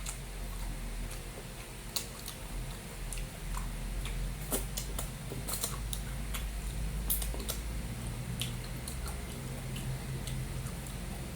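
Close-miked eating sounds: wet chewing of beef kare-kare and rice, with scattered sharp light clicks, several of them clustered in the middle.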